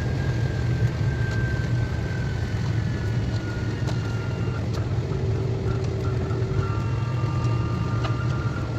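KTX high-speed train running at speed, heard from inside the passenger car: a steady low rumble with rushing noise, faint high whining tones that slowly fall in pitch, and scattered light clicks.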